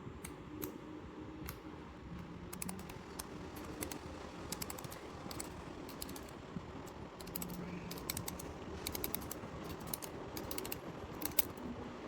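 Timemore Chestnut Slim Plus hand grinder being handled and taken apart: light, sharp clicks in quick runs of several at a time, over a steady low background hiss.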